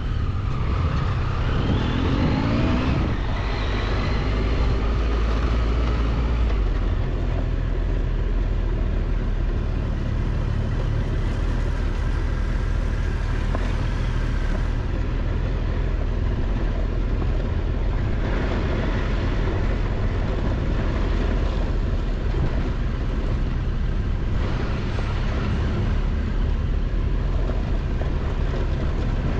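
Triumph Tiger 1200 XCX three-cylinder adventure motorcycle running while ridden on a dirt road, with a steady heavy low rumble and a short rise in revs about two seconds in.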